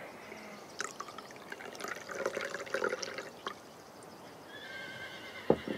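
A horse whinnying: a shaky, pulsing call lasting about two and a half seconds, followed near the end by two light knocks.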